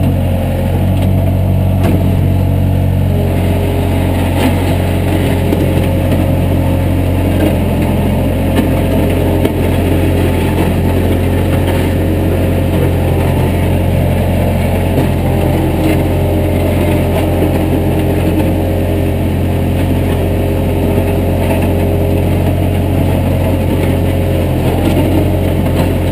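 Heavy-equipment engine running steadily and loud, its pitch and level hardly changing.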